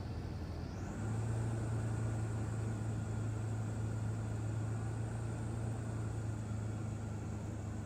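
Steady drone of the Remos GX's engine and propeller heard inside the cockpit, a low even hum under a constant hiss, stepping up a little in loudness about a second in.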